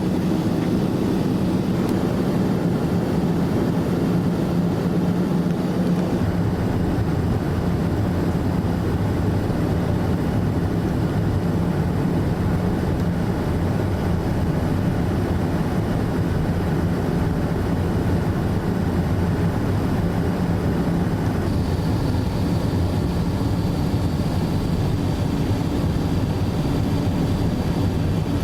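Steady cabin noise of a Boeing 787-9 Dreamliner in flight during its descent: a continuous low rumble of engines and airflow. About three quarters of the way through, a faint high whine joins in.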